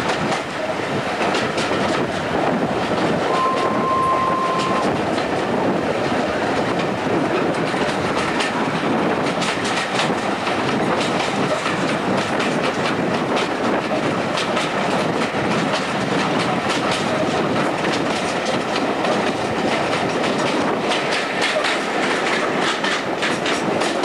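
Passenger carriage of a steam-hauled train running along the line, heard at an open window: a steady rumble and rush with the wheels clicking over the rail joints throughout. A brief steady whistle-like tone sounds about three seconds in.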